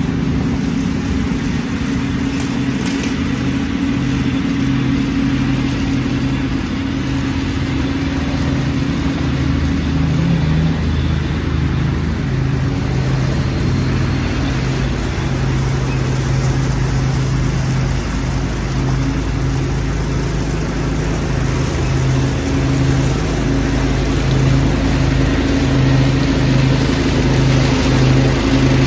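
Lawn tractor engine running steadily under the load of leaf vacuuming, its note holding with small dips and swells.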